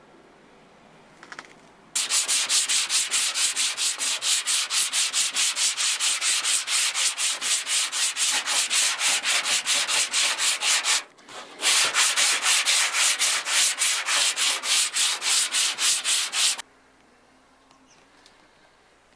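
Sandpaper rasping over the painted panel of a 1986 Ford Mustang's passenger door in rapid back-and-forth strokes, about four or five a second, taking the paint down toward bare metal or factory primer. It starts about two seconds in, pauses briefly around the middle, then resumes and stops near the end.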